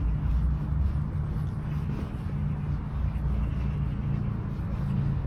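Steady low rumble of road traffic, with faint high bird chirps now and then.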